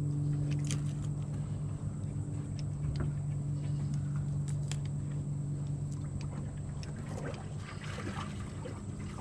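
Steady, even machine hum from a running motor, with a few faint clicks over it.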